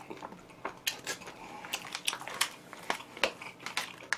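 Close-up eating sounds of oven-roasted chicken: irregular sharp clicks and crackles as the crisp-skinned chicken is bitten, chewed and handled.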